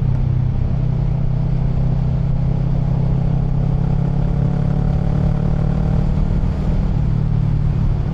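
Motorcycle engine running steadily while riding, with heavy wind and road noise on the rider's microphone.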